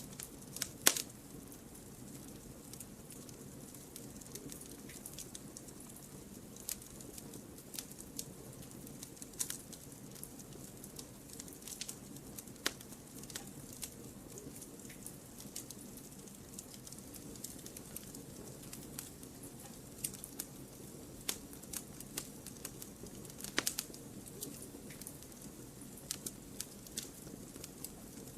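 Wood fire crackling in a fireplace: irregular sharp pops and snaps over a low steady background, the loudest pop about a second in.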